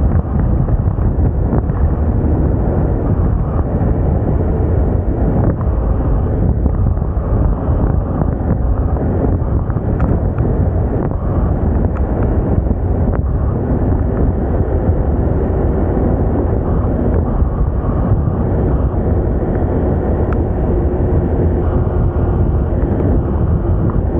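Steady wind rush on the microphone from riding a Moda Moca 110 scooter, with its small engine running underneath.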